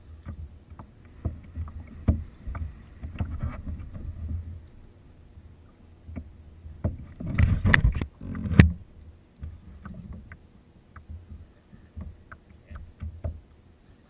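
Handling noises aboard a plastic kayak: scattered clicks and low knocks, with a louder cluster of thumps about halfway through.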